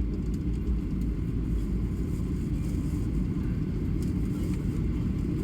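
Airliner cabin noise: the steady low rumble of the jet engines and airflow heard from inside the passenger cabin, with no change in level.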